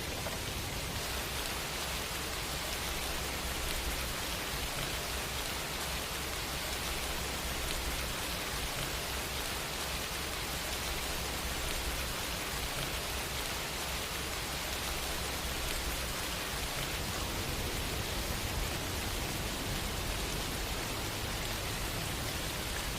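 Steady rain falling, an even, unbroken hiss with no distinct drops or breaks.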